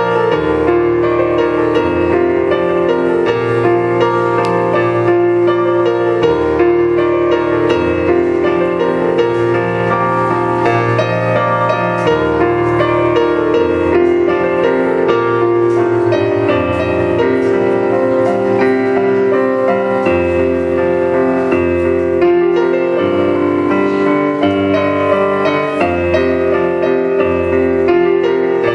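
Solo piano played without a break: chords over a bass line that changes every second or two.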